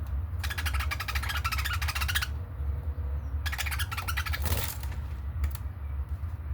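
Budgerigars chattering in two rapid, buzzy bursts, the first about two seconds long and the second shorter, over a steady low hum.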